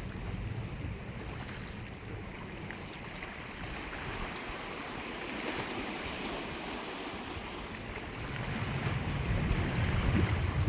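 Sea surf washing ashore in a continuous hiss, with a wave swelling about halfway through. Near the end a louder low rumble builds, with wind buffeting the microphone.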